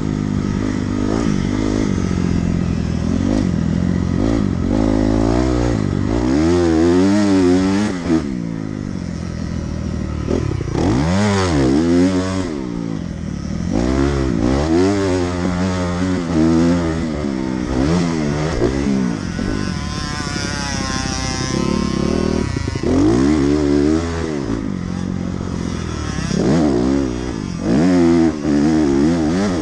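Dirt bike engine ridden hard: it revs up and drops back again and again as the rider works the throttle and gears.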